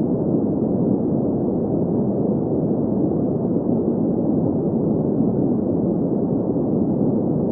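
Steady green noise: continuous hiss-like noise concentrated in the middle-low range, with little treble and no rhythm or change.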